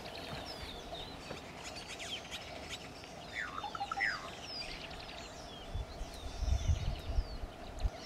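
Birds chirping continually, many short high chirps overlapping, with two louder gliding notes about three to four seconds in. A low rumble comes in over the last two seconds.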